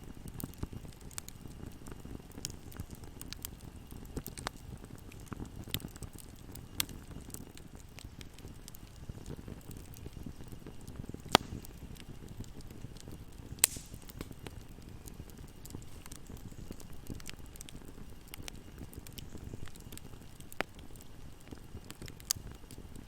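Fire burning in a fireplace: a steady low rumble of flames with scattered soft crackles, and two louder sharp pops about halfway through.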